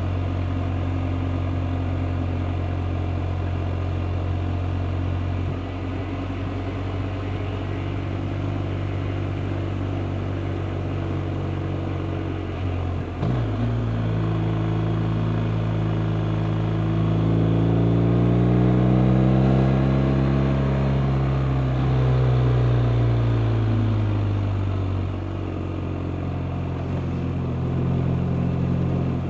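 BMW R 1250 RT's boxer twin engine running at a steady speed. About halfway through there is a brief break in the engine note; the pitch then climbs for several seconds under acceleration and falls back as the rider eases off.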